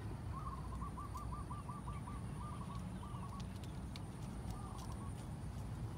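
A bird calling: a fast trill of about ten short repeated notes lasting about a second, then three shorter bursts of the same notes spaced over the next few seconds.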